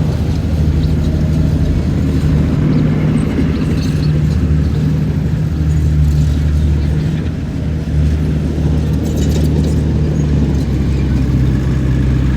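Heavy diesel construction-machine engine running steadily, its loudness dipping briefly about seven and a half seconds in.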